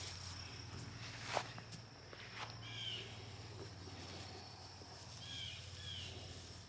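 Footsteps on an outdoor path, with a sharp click about a second in and a few short chirps, one near three seconds in and two more later, over a faint steady high-pitched whine.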